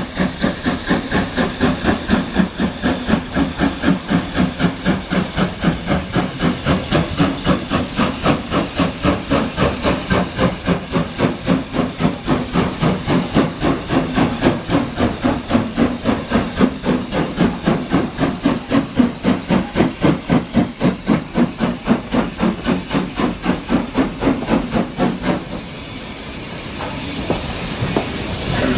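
Steam locomotive exhaust chuffing in an even rhythm of about three beats a second. About 25 seconds in the chuffing stops, leaving a steady rolling noise with hiss.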